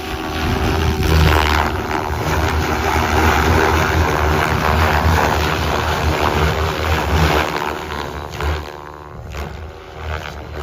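Goosky RS7 electric RC helicopter on a 12-cell setup in flight: rotor blades and motor making a continuous whirring buzz whose pitch shifts as the head speed and blade load change, getting quieter near the end.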